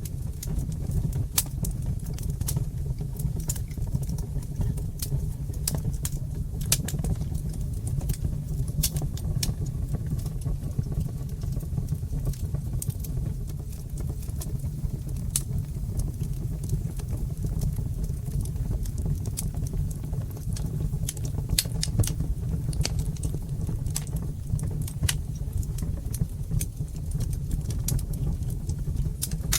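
Wood fire crackling in a fireplace: frequent, irregular sharp pops and snaps over a steady low rumble of burning flames.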